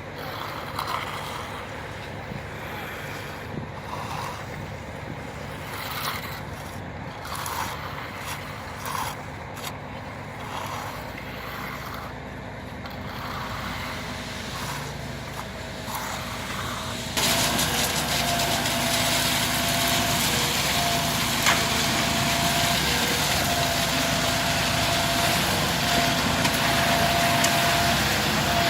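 Quiet background with faint short sounds, then about two-thirds of the way in a motor suddenly comes on and runs steadily with a constant hum.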